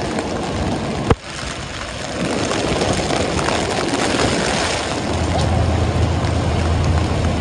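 Heavy rain and city street traffic: a steady wash of rain noise with vehicles, a sharp click about a second in, and a low engine hum joining from about five seconds.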